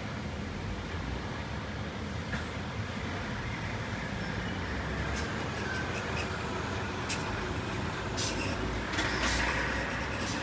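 Steady low outdoor rumble, with several faint sharp clicks scattered through the second half.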